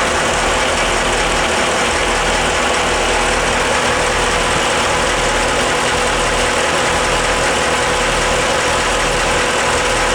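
Caterpillar marine diesel engines, both running together at a steady idle.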